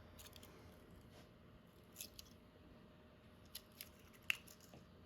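Near silence with a few faint, light clicks and taps of a print and glass bed being handled, the sharpest one near the end.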